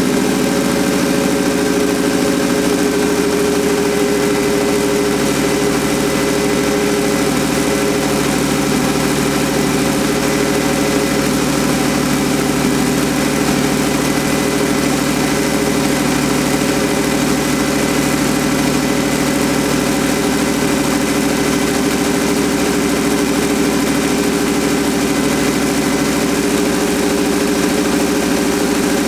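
1954 Ford F-100 pickup's engine idling steadily.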